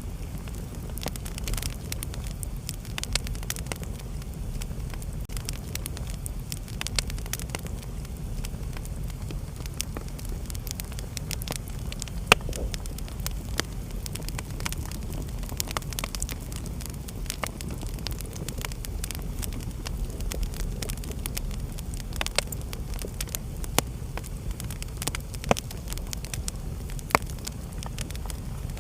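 Wood fire burning in a fireplace: a steady low rumble of flames with irregular sharp crackles and pops, one louder pop about twelve seconds in.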